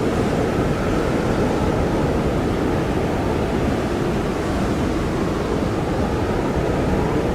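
Blizzard wind blowing hard and steadily: a dense, low rush with a faint wavering howl over it.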